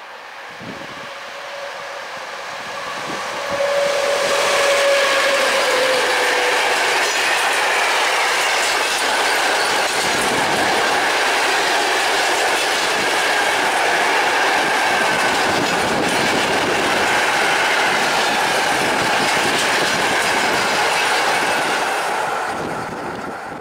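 Freight train of Cemet cement hopper wagons hauled by an ET22 electric locomotive passing: it builds up over the first few seconds, then holds a steady loud rumble and clickety-clack of wheels with a high wheel squeal. It fades near the end as the last wagons go by.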